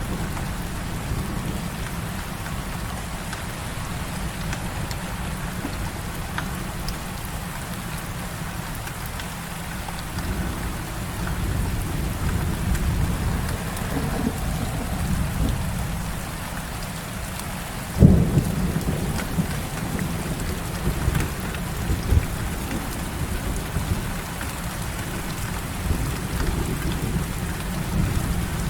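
Heavy rain falling steadily over continuous low rumbling thunder. About two-thirds of the way through, a sharp, loud thunderclap cracks and rolls off into further rumbling.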